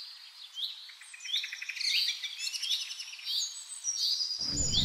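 Several birds chirping and calling at once, with a short high note repeated every second or so and bursts of rapid trills over it.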